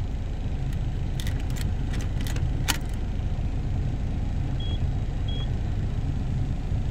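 SsangYong Musso Sports engine running steadily, heard from inside the cab as a low rumble. Over it come several sharp clicks of dashboard buttons being pressed, then two short high beeps from the climate-control panel answering button presses.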